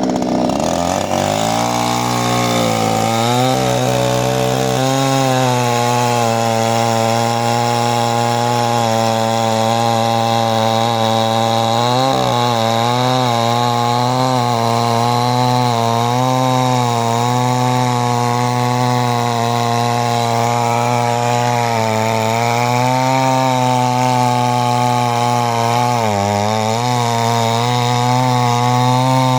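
Chainsaw engine running, its pitch climbing over the first few seconds and then holding steady, with a few brief dips in speed along the way.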